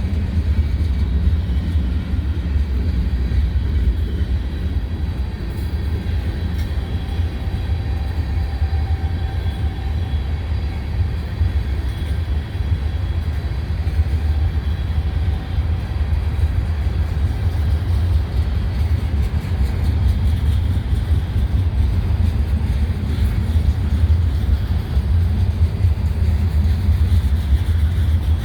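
Freight train rolling past, a steady low rumble of the cars on the rails with a few faint thin high tones above it.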